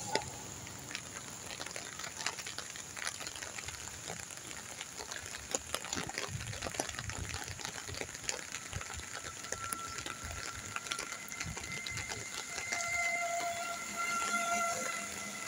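Rain falling, with scattered drops ticking close by. From about ten seconds in, a steady tone held at a few pitches at once joins the rain.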